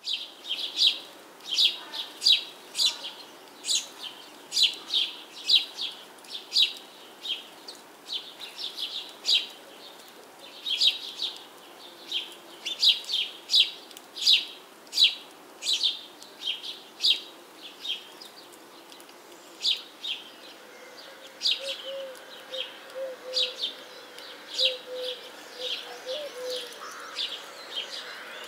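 Birds chirping: short high calls repeating irregularly, about one or two a second, over a faint steady hiss.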